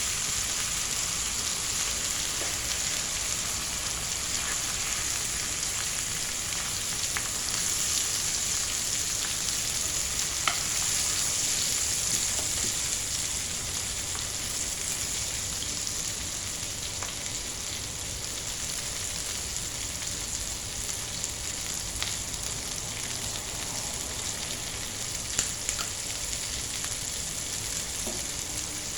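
Chicken fillet frying in hot oil in a pan, a steady sizzle with a few sharp pops about ten seconds in and again past twenty seconds.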